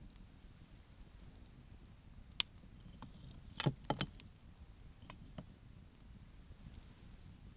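Wood fire crackling: a sharp pop about two seconds in, a quick cluster of pops near the middle and a few fainter snaps after, over a low steady hiss.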